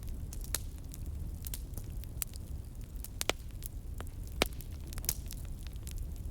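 Wood fire burning in a fireplace: a steady low rumble of flames with scattered sharp crackles and pops, the loudest pop a little after four seconds in.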